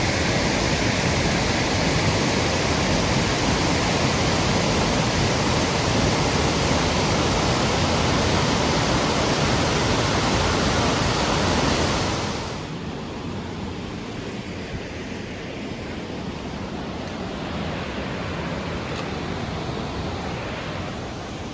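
Waterfall rushing in a steady, dense roar of water. About two-thirds of the way in it drops to a quieter, duller rush.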